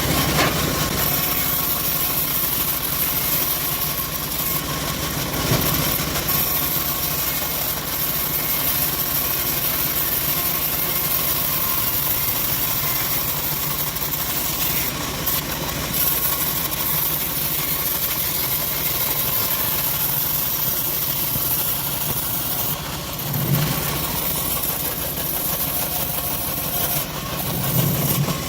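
Assembled bandsaw mill running steadily while sawing acacia logs, a constant engine-like hum with a few brief louder moments.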